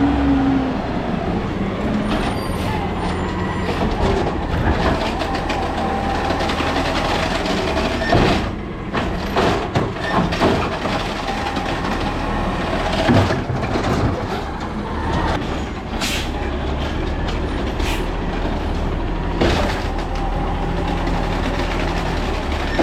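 Diesel engine of a Peterbilt 320 garbage truck with an Amrep automated side-loader body running steadily under hydraulic load, with several sharp knocks and bangs midway, typical of a trash cart being dumped and slammed against the hopper.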